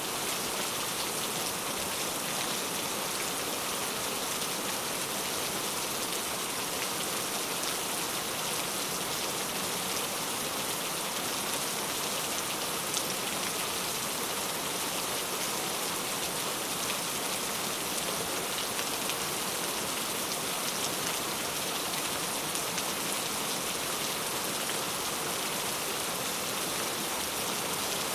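Heavy rain falling steadily: a dense, even hiss flecked with countless small drop impacts, with no thunder.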